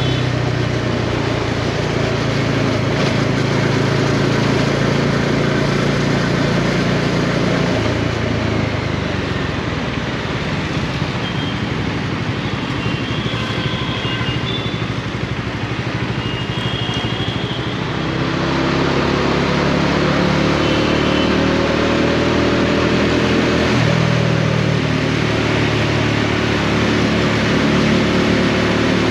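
Bajaj Dominar 400's single-cylinder engine running under way. It eases off about a quarter of the way in, then accelerates again from about two-thirds in with a rising pitch, shifting up about 24 s in and settling into a steady run.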